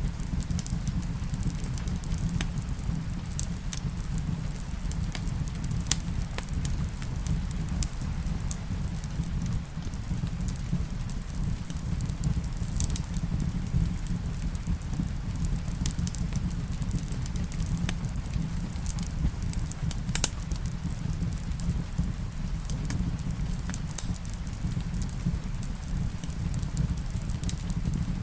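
Wood fire in a fireplace crackling, with scattered sharp pops and snaps over a steady low rumble, mixed with rain.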